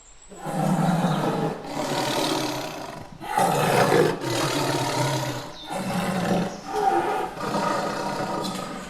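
Tiger roaring: about four long, rough roars one after another with short breaks between them.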